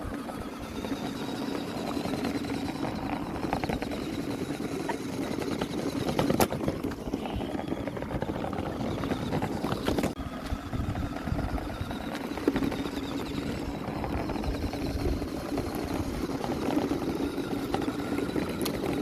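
Small DC motor of a homemade soda-can toy truck running steadily, with a couple of sharp clicks partway through.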